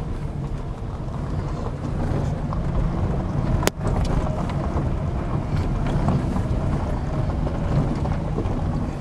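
Dacia Logan car engine pulling steadily as the car climbs a steep, rough gravel track, with a single sharp click about three and a half seconds in.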